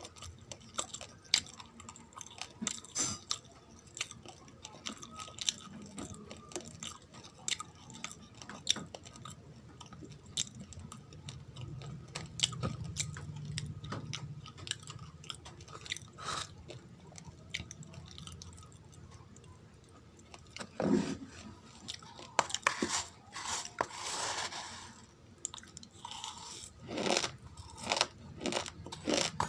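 Close-up chewing of raw, uncooked rice grains: a steady run of small, sharp, irregular crunches, with a louder, denser stretch of crunching about two-thirds of the way through.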